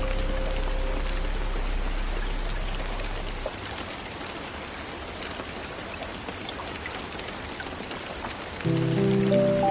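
Steady rain on a window, an even hiss with scattered small drop ticks. A soft, sustained music chord fades away in the first few seconds, and a new chord comes in near the end.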